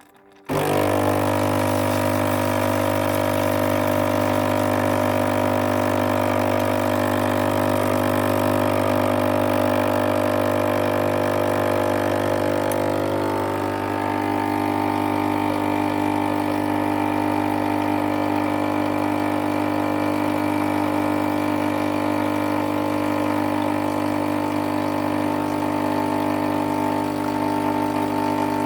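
Krups FPB145000P espresso machine's water pump switching on abruptly and running with a steady drone while water is pushed through the circuit in a test run; its tone shifts slightly about halfway through.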